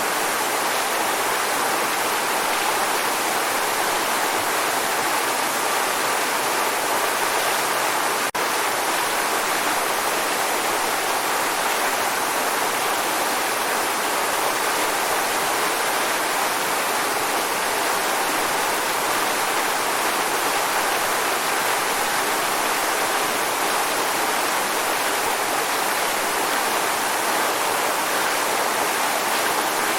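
Waterfall: a steady, unbroken rush of falling water, a dense even hiss without pauses or changes.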